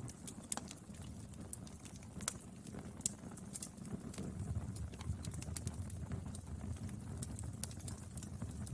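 Wood fire burning: a low, steady rumble under frequent, irregular sharp crackles and pops from the burning wood.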